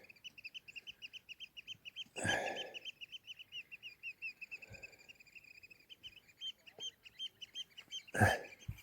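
A bird calling in a fast, even series of high piping notes, about nine a second, without a break. Two brief louder noises cut across it, a couple of seconds in and near the end.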